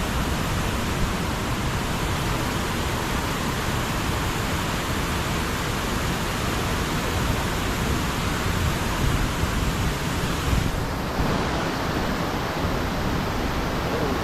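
Floodwater rushing through a spillway: a loud, steady rush of water.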